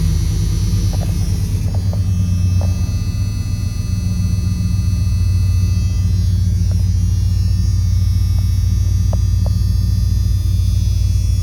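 1996 Dodge Ram pickup's V8 idling steadily with a low, even hum, a few faint ticks over it.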